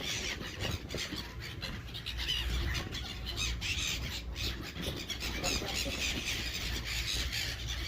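A flock of seagulls calling, with many overlapping squeals and squawks.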